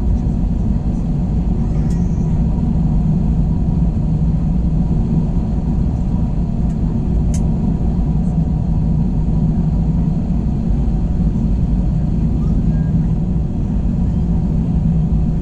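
Steady cabin drone of an Airbus A321 airliner in flight: the engines' low hum and air noise running evenly, with a faint tick or two.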